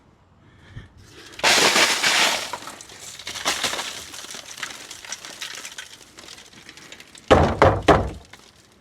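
Loose rust flakes and scale from a rotted steel fuel tank being dumped into a scrap bin: a loud rattling pour about a second and a half in that trails off into scattered clinks, then a few sharp clanks near the end.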